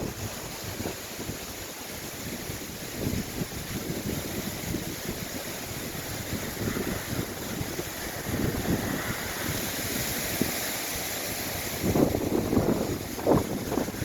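Hurricane wind blowing hard and buffeting the microphone in irregular gusts over a constant rushing hiss. The hiss swells a little past the middle, and the strongest gusts come near the end.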